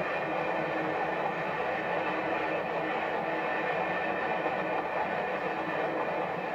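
Locomotive-hauled passenger train running steadily along the track, heard as an even rumble with faint steady tones, through an old camcorder tape recording with some tape hiss.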